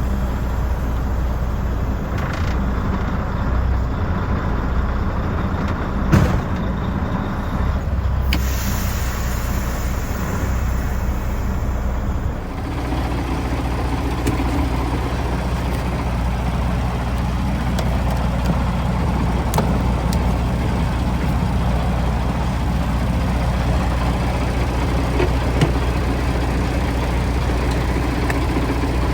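Semi truck's diesel engine idling steadily, with a single sharp knock about six seconds in and a shift in the sound about twelve seconds in.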